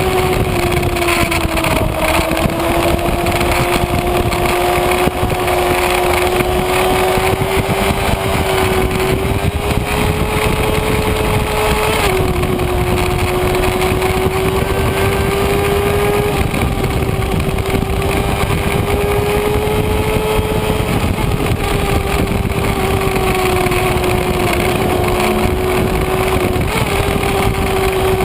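Kawasaki Ninja ZX-6R inline-four running at high revs under way, heard from a mount on the bike over heavy wind rush. The engine note wavers slightly, drops sharply about twelve seconds in, then holds steady again.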